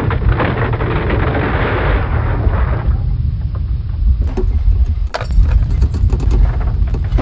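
Earthquake sound effect: a continuous deep rumble, with a crackling debris noise over the first three seconds and sharp cracks about five seconds in and near the end.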